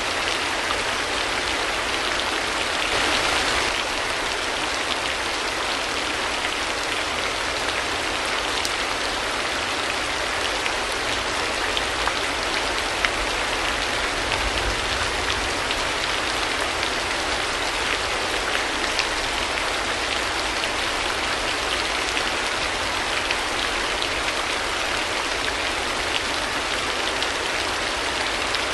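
Steady rain: a dense, even hiss of falling rain with scattered individual drop ticks, swelling briefly about three seconds in.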